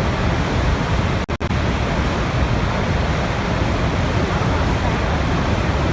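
Steady rushing water, a dense even wash heaviest in the low end, broken by two very brief dropouts just over a second in.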